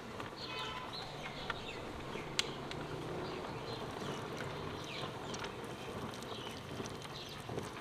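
Birds chirping in short scattered calls over a steady low hum, with a few sharp clicks.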